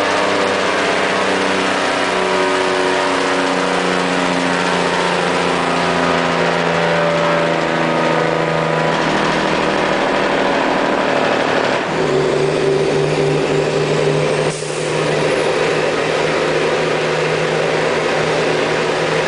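Mack truck's diesel engine running through a homemade muffler with the Jake (engine compression) brake working, its note falling steadily as the engine slows. About twelve seconds in the sound changes abruptly to a steadier note, with a brief drop near fifteen seconds.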